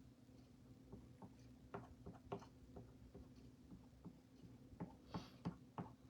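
Near silence broken by faint, irregular light ticks and taps, from about a second in, of a small squeegee working chalk paste through a silk-screen stencil on a chalkboard.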